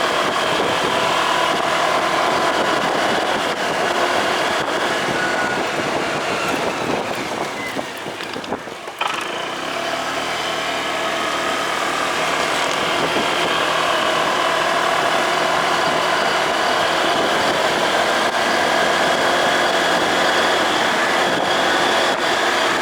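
Motorcycle running on the road with a steady engine note. The engine eases off briefly about eight seconds in, then picks up again.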